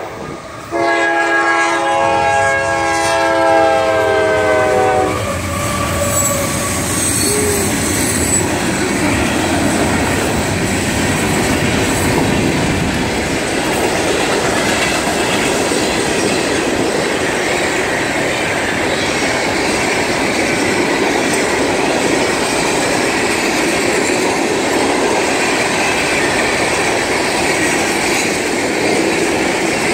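A CSX diesel freight locomotive's air horn blows one long chord of several tones for about four seconds as it nears a grade crossing. Then a train of open hopper cars rolls past with a steady rumble and the clack of wheels over rail joints.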